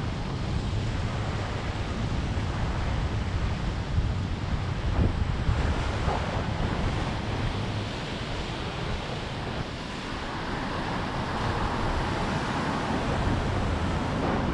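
Ocean surf breaking and washing, with gusty wind buffeting the microphone.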